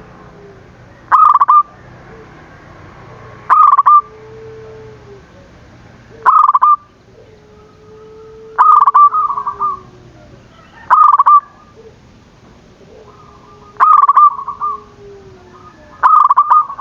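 Zebra dove (perkutut) cooing song, a loud call repeated seven times, about every two to three seconds, with fainter, lower drawn-out notes between the calls.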